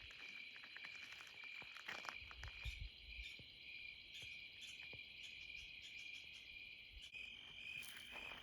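Crickets chirping steadily, a continuous high trill, with a few faint knocks in the first three seconds.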